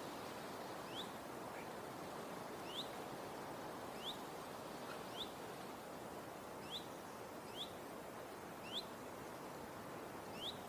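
A bird repeating a short, high, upswept chirp about once every second or so, eight times, over a steady background hiss of outdoor ambience.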